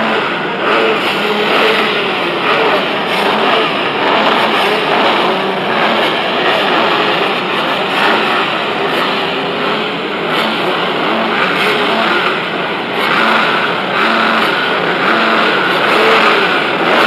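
Several motocross bikes racing together, their engines revving up and down as they go around the track.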